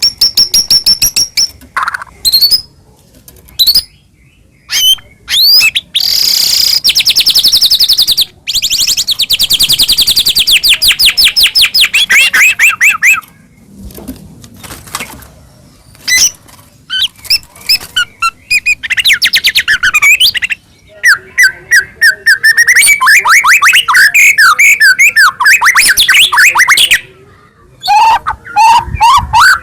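White-rumped shama (murai batu) in full song: loud phrases of rapid repeated notes, trills and whistles, broken by short pauses.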